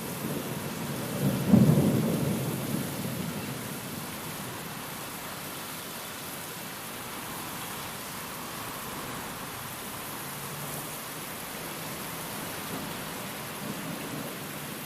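Steady rain with a clap of thunder about a second and a half in, rumbling low and dying away over the next couple of seconds, then rain alone.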